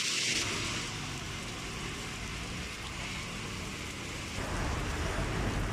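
Rain falling, a steady even hiss. About four seconds in a low rumble joins it.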